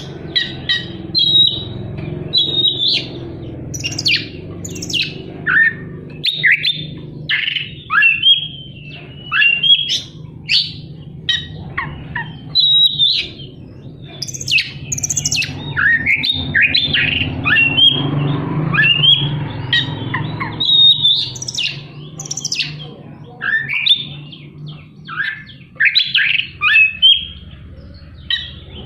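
Oriental magpie-robin (kacer) singing a fast, unbroken song of sweeping whistles and harsh chattering notes mixed with mimicked phrases, over a steady low hum.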